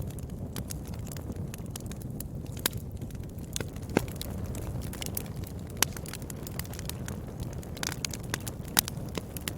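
Wood fire burning in a fireplace: a steady low rumble of flames with scattered sharp crackles and pops from the burning wood, a few louder pops standing out.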